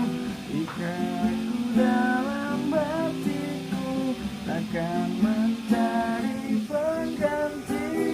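Acoustic guitar strummed in steady chords while a voice sings the melody over it.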